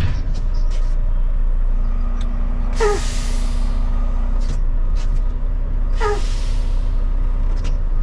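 Semi-truck engine running low while the rig is inched into a dock, with two air-brake hisses about three seconds apart, each opening with a short falling squeal before the hiss of released air.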